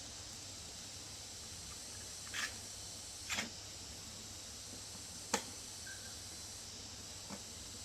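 A few light, separate clicks and taps, about four of them spread out, over a steady background hiss.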